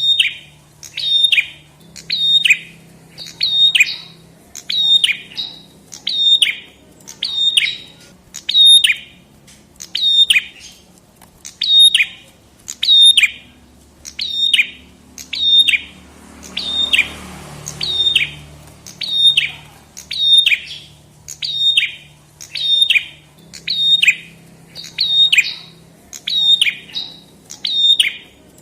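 A prenjak kepala merah (red-headed prenjak) singing a loud, sharp call over and over, about once a second, each note a quick downward sweep. A faint low hum runs underneath, and a brief hiss comes about two-thirds of the way through.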